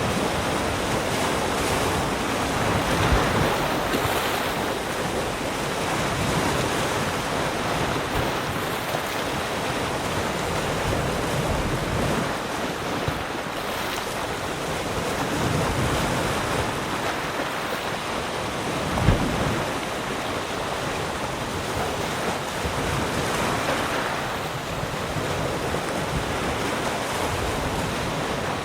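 Ocean waves breaking and washing in, a steady rushing surf that swells and eases every few seconds, with one brief low thump about two-thirds of the way through.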